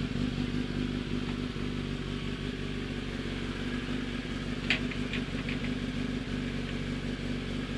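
Kawasaki ZX-10R inline-four superbike engine idling steadily at an even pitch, with a few brief high chirps a little past halfway.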